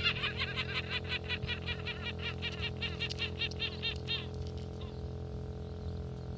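A gull calling in a rapid run of short, arched notes, about six a second, that stops about four seconds in.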